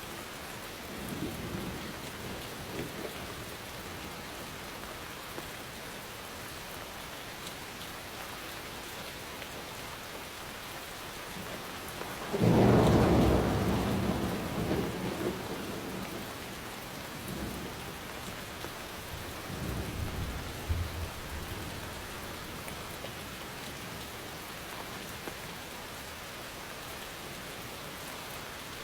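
Steady rain falling, with thunder. A loud thunderclap breaks in about halfway through and rolls off over a few seconds, and fainter rumbles come near the start and again later.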